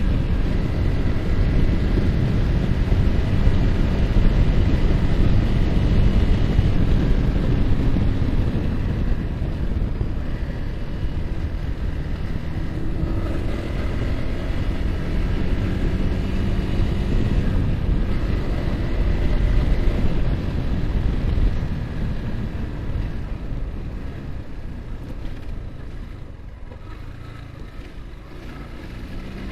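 Yamaha R15 single-cylinder engine running under way, with heavy wind rush on the microphone. The noise eases off and gets quieter over the last third.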